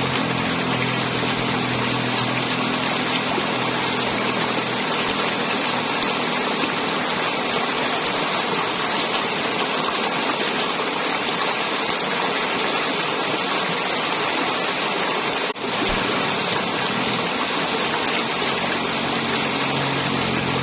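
River water flowing and gurgling in a steady rush, with a faint low hum in the first few seconds and again near the end. The sound cuts out for a split second about three-quarters of the way through.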